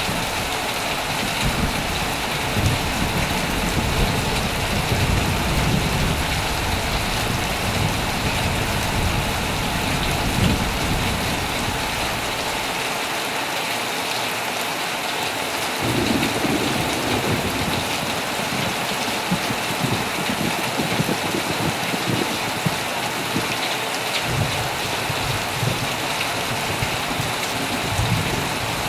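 Heavy rain falling steadily on a tent, with low rolling thunder rumbling through the first half. The thunder dies away for a few seconds, then rumbles again a little past halfway.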